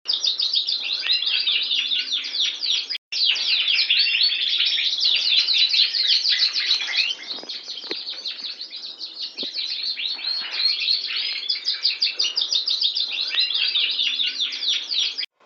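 Border canary singing: a continuous run of rapid trills and rolling chirps, broken by a brief gap about three seconds in, and cut off abruptly near the end.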